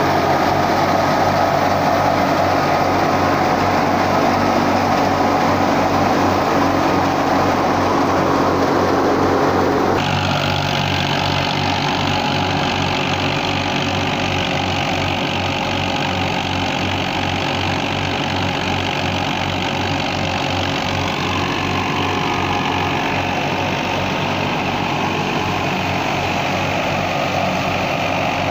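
Fiat 480 tractor's diesel engine running steadily while powering a thresher, an even firing beat under a steady rushing noise. About ten seconds in, the sound shifts abruptly and then runs on steadily.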